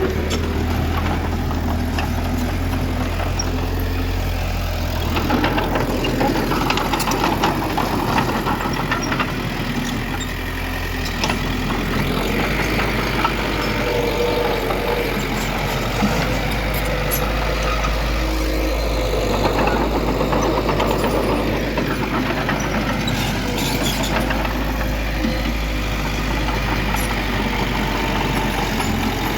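Heavy diesel engines of earthmoving machinery, a bulldozer and dump trucks, running steadily. Their low engine note shifts lower about eleven seconds in, with scattered clanks and scrapes throughout.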